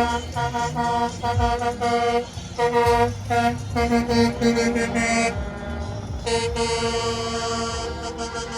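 Truck horn honked in a rapid run of short toots, then after a brief pause held in one long blast, with engine rumble underneath.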